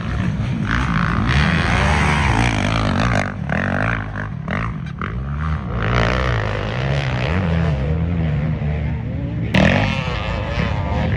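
Several off-road race engines revving, their pitch rising and falling as the machines race around a motocross track.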